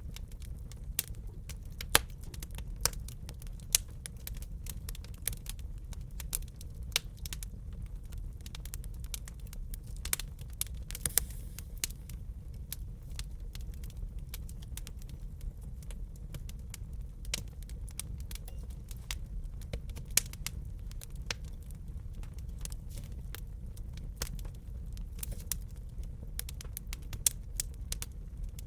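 Wood fire crackling in a fireplace: irregular sharp pops and snaps, a few louder ones standing out, over a steady low rumble of burning.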